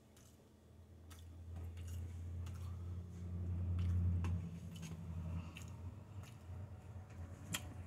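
Close-up chewing with small wet mouth clicks, together with a low hum that swells and then drops away suddenly about four seconds in.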